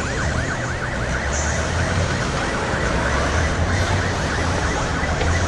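A vehicle siren yelping in quick repeated sweeps, about four a second, fading out a second or so in. A vehicle engine runs underneath throughout, with general street noise.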